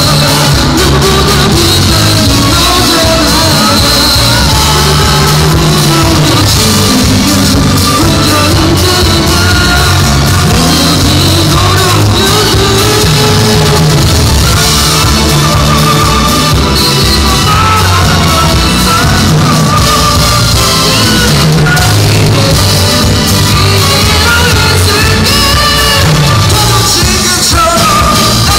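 Loud rock music played live, with a singer over bass, guitar and drums.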